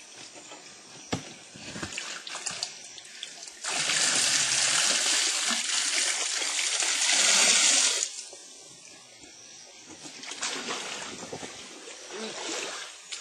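Stream water being scooped up and splashing. About four seconds in, a loud, steady rush of pouring water lasts about four seconds, followed by lighter splashing.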